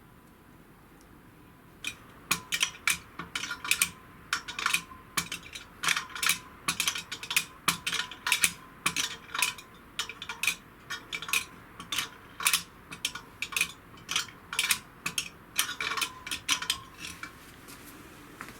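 Metal parts clicking and clinking against each other, a fast irregular run of sharp clicks that starts about two seconds in and stops near the end, as the removed clutch components of a Honda S2000 are handled.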